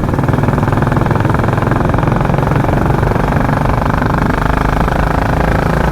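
Royal Enfield Classic 350's single-cylinder engine running at a steady cruise, its exhaust giving the rapid, even thump its rider calls a helicopter sound.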